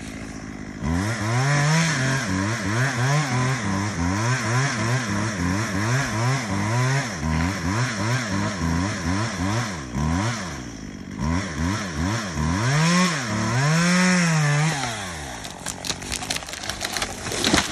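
Two-stroke chainsaw revving up and down over and over, its pitch rising and falling with each pull of the throttle. It eases off near the end, where a few sharp clicks are heard.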